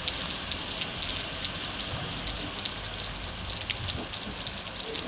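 Steady rainfall: an even hiss with a dense scatter of small, crackly drop impacts.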